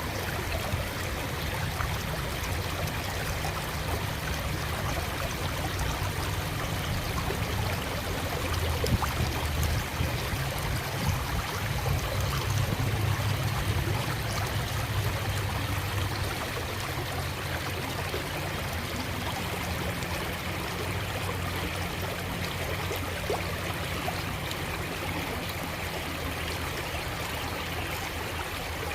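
A creek running steadily, a continuous rush of water with a low rumble underneath that grows a little louder for several seconds in the middle.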